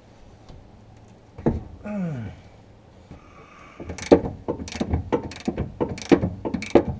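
Hand ratchet wrench with a 24 mm socket clicking in quick repeated strokes as a freed axle bolt is backed out, easy turning. About two seconds in there is a single click and a short falling groan.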